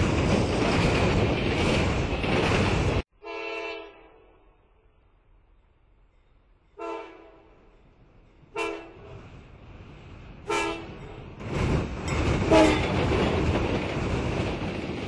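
Recording of a train: a loud steady rumble of the train running that cuts off suddenly about three seconds in, then four short horn blasts spaced a couple of seconds apart, then the rumble comes back with another horn blast.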